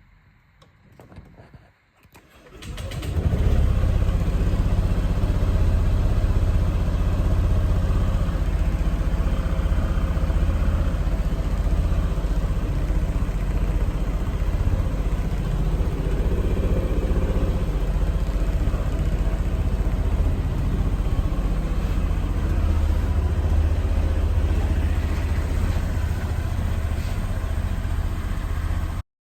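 Honda PCX 125 scooter's single-cylinder four-stroke engine starting about two and a half seconds in, then idling steadily; the sound cuts off abruptly near the end.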